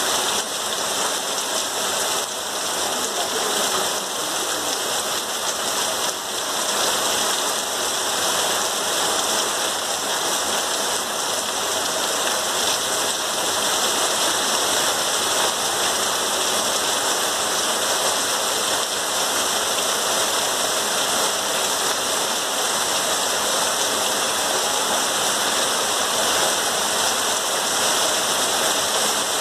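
Heavy rain pouring steadily onto wet open ground, an even, unbroken hiss of falling drops.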